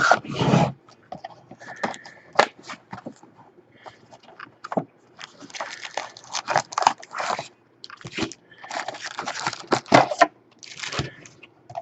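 Crinkling, crackling and scraping of trading-card packaging as a sealed box of cards is torn open and handled, in irregular bursts.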